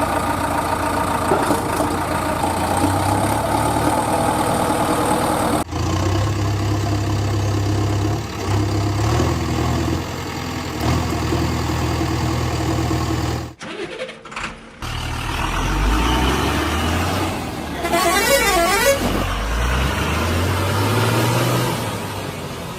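Heavy truck engine sounds running and revving, with the pitch stepping up and down, broken by abrupt cuts. A warbling horn-like tone sounds about eighteen seconds in.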